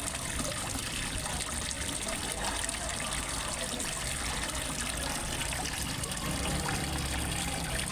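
Water steadily trickling and splashing into a fish pond, as from a small waterfall, an even, unbroken rush.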